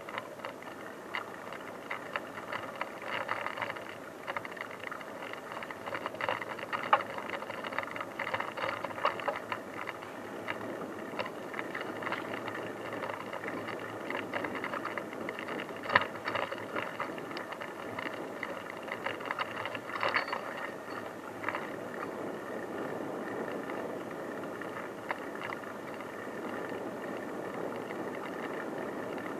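A bicycle rolling along a rough unpaved forest track: steady tyre noise with frequent rattles and knocks from the bike over the bumps, a sharp knock about 16 seconds in.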